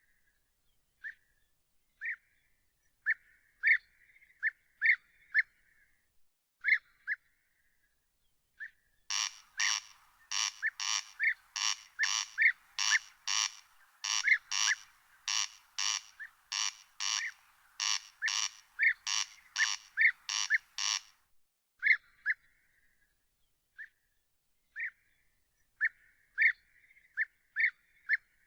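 Animal calls, with short sharp notes at irregular intervals. From about a third of the way in, a loud run of rasping pulses at about two a second lasts roughly twelve seconds, then stops, and the sharp single notes return.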